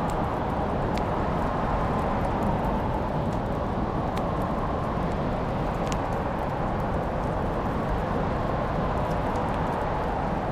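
Wood fire burning in a fireplace: a steady low rush of flames with a few sharp crackles and pops every couple of seconds.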